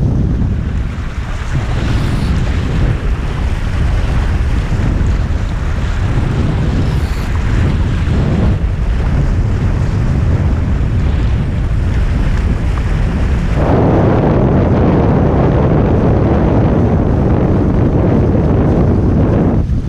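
Wind buffeting the boat-mounted camera's microphone over water rushing and splashing along a Hobie 16 catamaran's hulls under sail. The water rush grows louder about two-thirds of the way through.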